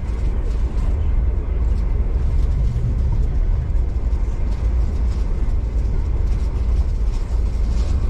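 V/Line passenger train running along the line, a steady low rumble of wheels and running gear heard from inside the carriage.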